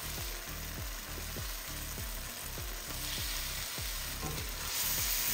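Curry paste with green mango slices sizzling in a stainless steel pan, the sizzle growing louder near the end.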